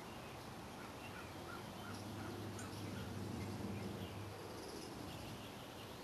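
Faint wild birds chirping: scattered short high calls and a brief run of evenly spaced notes, over a low outdoor rumble that swells in the middle.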